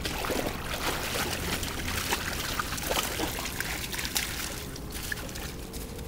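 River water trickling and lapping, with small irregular splashes and clicks.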